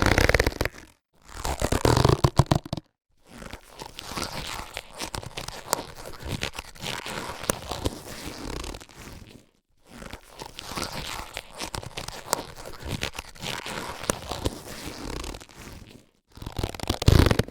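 Latex surgical gloves being handled, the rubber rubbing, stretching and crinkling. Louder bursts come in the first three seconds and again near the end, with softer continuous rubbing and small clicks in between and a short break about halfway.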